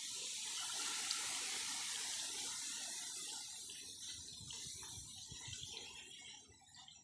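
Bamboo leaves rustling in a gust of breeze: a hissing rush that comes up suddenly, holds for several seconds and fades out near the end.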